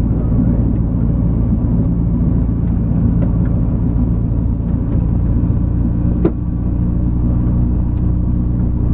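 Evektor SportStar light aircraft's Rotax 912 flat-four engine running steadily. A single sharp click comes about six seconds in, after which the engine tone shifts slightly.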